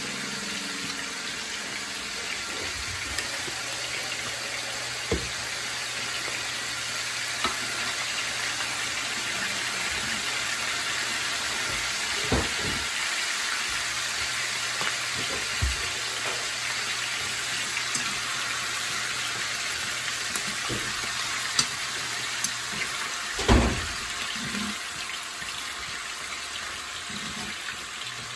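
Tilapia cakes shallow-frying in oil in a skillet: a steady sizzle, with a few light knocks of utensils against the pans, the loudest near the end.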